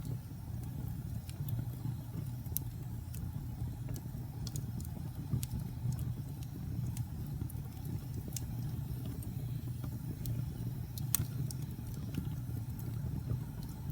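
Wood fire crackling in a fireplace: a steady low rumble of the burning fire with irregular sharp pops and snaps, one louder pop a little after the middle.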